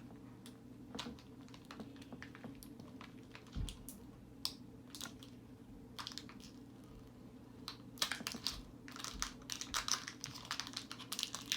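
Light clicks, taps and crinkling from hands handling AA batteries, tape and a plastic toy, scattered at first and getting busier in the last few seconds, over a faint steady hum.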